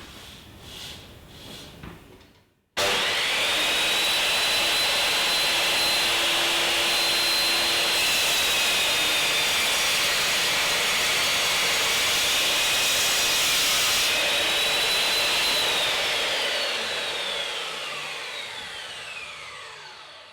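Circular saw in a Triton Workcentre starting suddenly a few seconds in and running with a high motor whine that sags in pitch while the blade cuts through a wooden workbench leg. Near the end the saw is switched off and winds down, its whine falling steadily in pitch. Faint handling sounds come before it starts.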